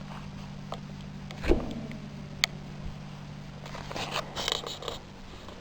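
Handling of a ceiling-fan-motor wind generator turned slowly by hand: a couple of sharp clicks and knocks and a short burst of rubbing and rattling about four seconds in, over a steady low hum.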